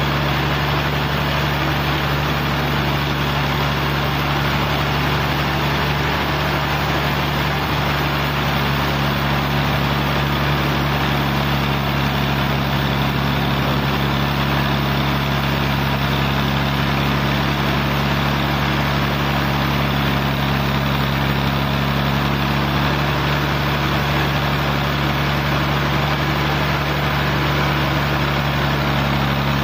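Sawmill engine running steadily, a constant hum that holds the same pitch throughout.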